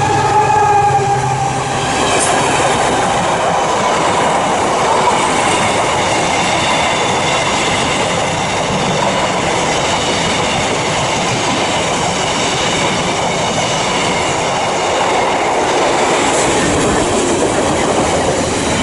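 A train running past on the track: a steady rush of wheel-on-rail noise with a faint high whine through most of it. A pitched tone at the start fades out about two seconds in.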